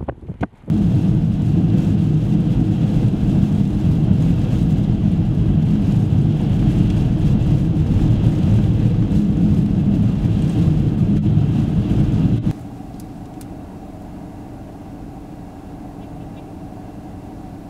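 Car travelling on a snowy highway: a loud steady low rumble of engine and tyres. About twelve seconds in it cuts off abruptly to a much quieter steady outdoor noise.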